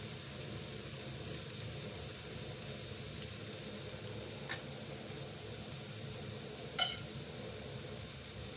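Roti noodles frying in hot ghee in a steel pan: a steady light sizzle. Two sharp clicks cut through it, a faint one about four and a half seconds in and a louder one near seven seconds.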